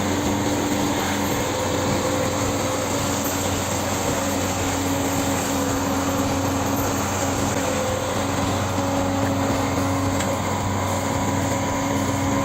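Heavy machine engine running steadily: a constant, unchanging drone.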